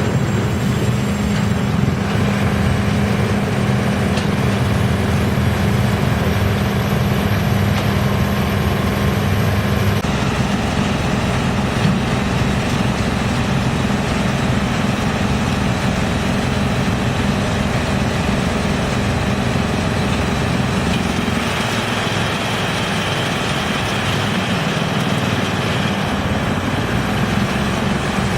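YGX2113 drum wood chipper running, a loud, steady machine noise with a constant low hum; the sound shifts abruptly about ten seconds in and again about two-thirds of the way through.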